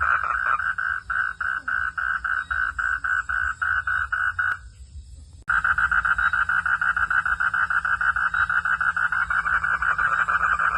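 Frogs calling at night in a steady pulsed chorus, about four pulses a second. The calling breaks off for about a second midway, then starts again suddenly and fuller.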